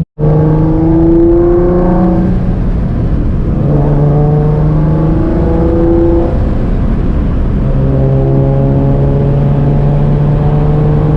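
Single-turbo Nissan 350Z's VQ35HR V6 running as the car is driven, its engine note stepping up and down several times.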